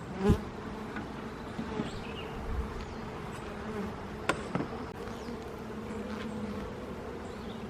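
Honey bees buzzing in a steady hum around an opened hive, with a couple of faint knocks about a third of a second and four seconds in.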